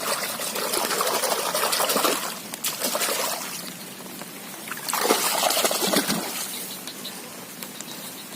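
Shallow muddy water splashing and trickling in two spells, as someone wades and steps through it.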